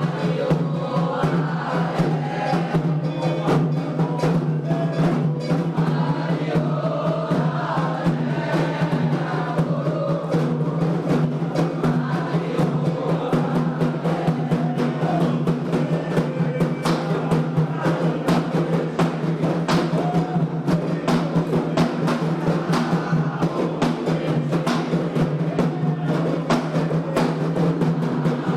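Candomblé ritual music: atabaque hand drums keeping up a steady, driving rhythm while a group of voices sings a chant over them.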